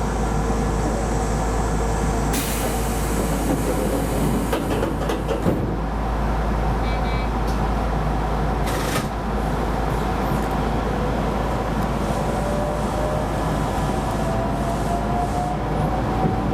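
Electric commuter train running on the Keisei Line, with steady rail and running noise. A faint motor whine sinks a little early on, then from about two-thirds of the way in a rising whine builds as the train accelerates. There are two brief hisses, one a few seconds in and one about halfway.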